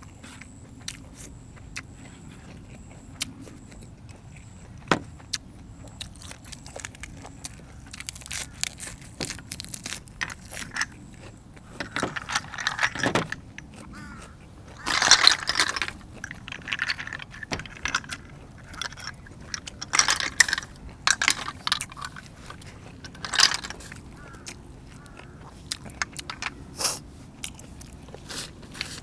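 Close-up eating sounds of a person eating boiled apple snails with raw vegetables: scattered clicks and clinks, and from about a third of the way in, irregular louder bursts of chewing, crunching and mouth noise.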